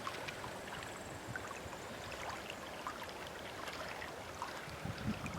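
Faint, steady rush of flowing water, with a few small ticks scattered through it.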